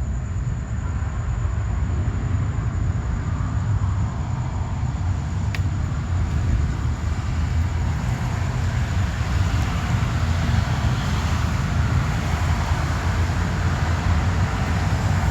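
Steady low rumble with an even hiss, like a vehicle driving, with a single sharp click about five and a half seconds in.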